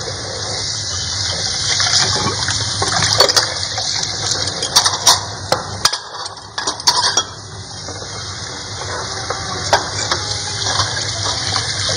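Plates and cutlery clinking in scattered short knocks, over a steady hiss.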